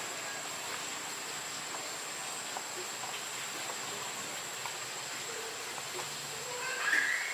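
Steady background hiss with a thin, high, unbroken whine and faint scattered ticks, after the motorbike engine has stopped. A brief squeaky sound comes near the end.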